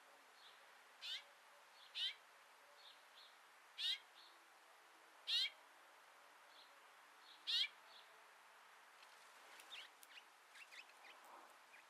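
A bird calling five times with short downward-sliding calls spaced one to two seconds apart, followed near the end by a run of softer, quicker chirps.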